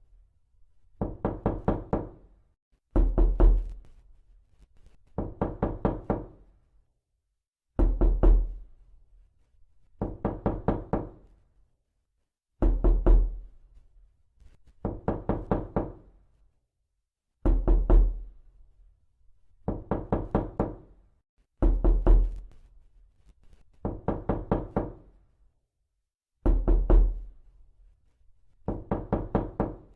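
Knocking in quick rapping bursts of several knocks each, repeated about every two to three seconds with short gaps between them.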